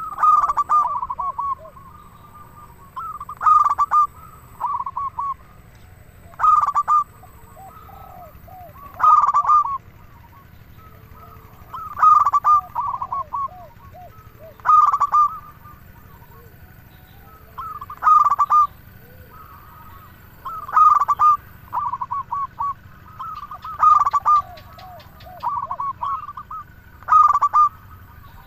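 Zebra dove (perkutut) singing its cooing song: a phrase of short staccato coos repeated about every three seconds, each phrase opening with a strong note and trailing off into softer notes.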